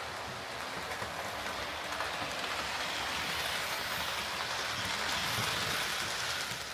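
Hornby OO gauge model locomotive running along the track: a steady whirr and rattle of motor and wheels on the rails. It grows louder toward the later part and then falls away.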